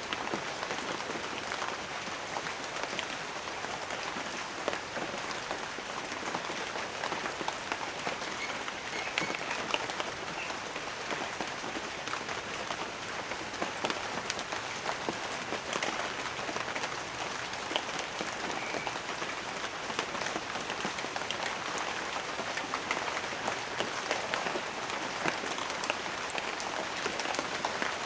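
Steady rain falling: a dense, even patter with frequent sharper single drop hits.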